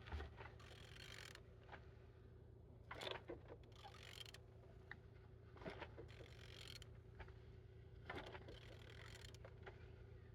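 Near silence with a low steady hum, broken by a few brief, faint scrapes and rustles, handling noise as the camera is carried around the engine.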